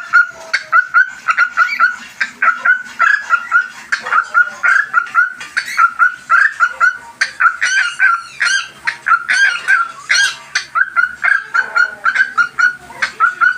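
Cockatiels calling: a continuous run of short, repeated chirps, about three to four a second, with some louder, higher calls mixed in.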